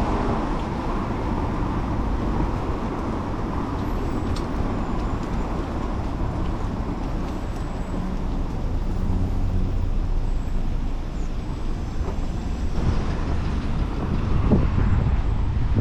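Steady city traffic and road noise heard while riding a bicycle, with wind rumbling on the microphone, in stronger gusts near the end.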